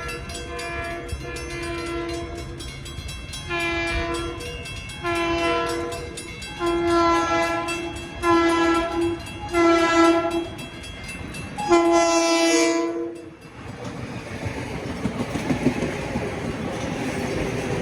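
Train horn sounding a series of roughly second-long blasts that grow louder, then cutting off sharply. A steady rumble of rolling train cars follows.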